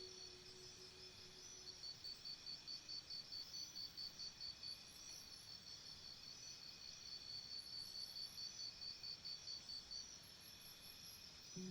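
Faint crickets chirping: two runs of rapid, evenly pulsed high chirps, about four or five a second, over a steady high insect trill.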